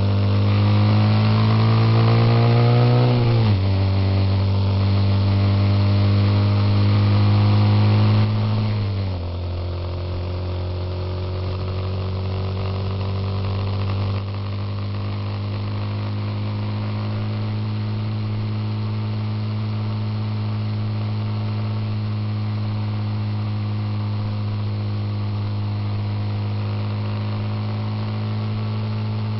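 Suzuki Intruder motorcycle engine under way: it climbs in pitch for the first few seconds, drops suddenly about three and a half seconds in, drops again around nine seconds, then runs at a steady cruising note.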